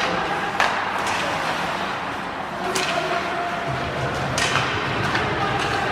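Ice hockey game play: steady rink noise with four sharp cracks of sticks and puck spread through the few seconds.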